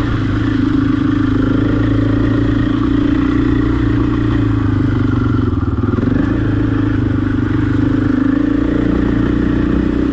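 Husqvarna enduro dirt bike engine running steadily while under way on a trail, its note dipping and bending briefly about halfway through.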